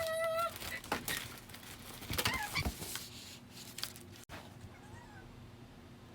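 Latex balloons squeaking as they are rubbed and handled: a short pitched squeak at the start and rising squeaks about two seconds in, among light knocks and crinkles. After a sudden cut a little past halfway, only faint handling sounds remain.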